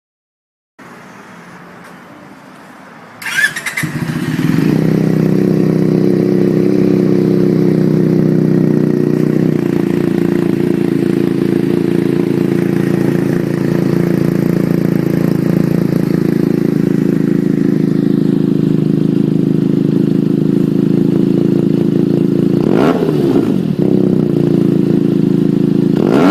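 Benelli TNT 300 parallel-twin motorcycle engine with an aftermarket exhaust, starting about three seconds in and settling into a steady idle, with a quick rev near the end.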